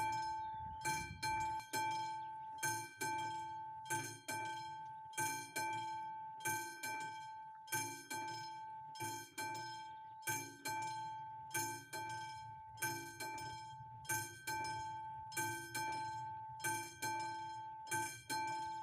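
Classic mechanical bell of an AŽD 71 level-crossing warning signal, struck again and again in an even rhythm, each stroke ringing out and fading before the next: the crossing is warning of an approaching train.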